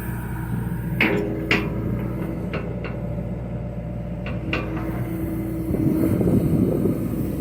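John Deere excavator's diesel engine running steadily, with several sharp clicks or knocks in the first few seconds and the engine getting louder about six seconds in.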